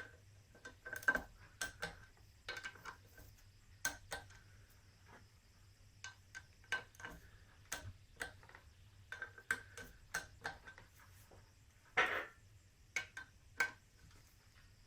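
Irregular light metallic clicks and clinks of hand tools and metal parts being handled, with a louder, longer scrape about twelve seconds in, over a faint steady low hum.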